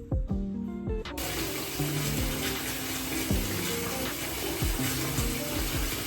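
Water running steadily, starting suddenly about a second in, over soft background music with piano-like notes.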